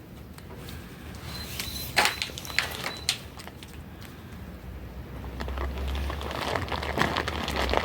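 Crackling and rustling, with a few sharp snaps about two to three seconds in, growing louder and denser after about five seconds.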